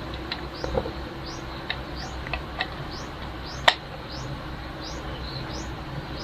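Short, high, rising chirps repeating about twice a second, a small bird calling, over a faint low hum, with a few light clicks, the sharpest about two-thirds of the way through.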